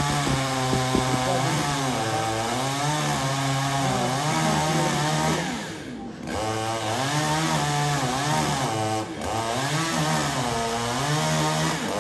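Chainsaw running and cutting, its engine note rising and falling under load. It drops back briefly about halfway through, then picks up again.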